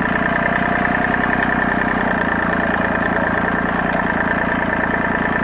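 Tractor engine running steadily at a constant speed, with a fast even pulse and a strong steady hum.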